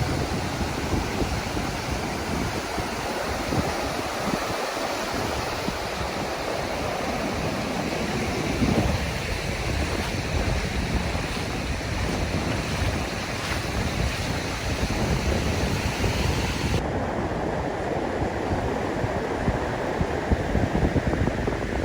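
Ocean surf washing ashore with wind buffeting the microphone. The high hiss drops away suddenly about three-quarters of the way through.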